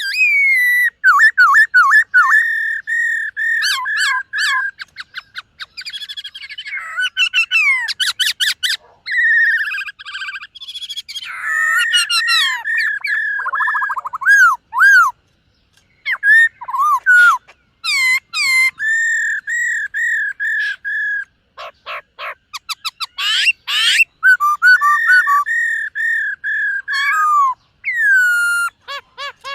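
Black-throated laughingthrush singing a long, varied song: loud fluty whistles repeated near one pitch, rapid trills, quick up-and-down glides and some harsh buzzy notes, broken by a couple of short pauses.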